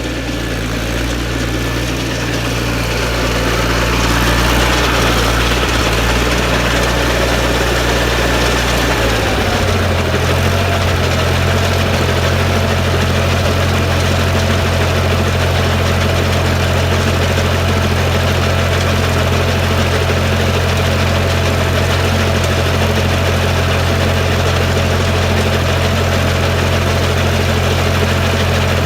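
John Deere 318 garden tractor's twin-cylinder Onan engine running steadily. About nine seconds in its note changes and a thin whine drops in pitch, then holds lower and steady.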